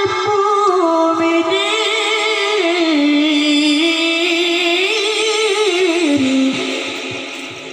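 A Quran reciter's voice holding one long melodic phrase with no clear words: a wavering, ornamented note that steps down, rises again, then sinks lower and fades out near the end.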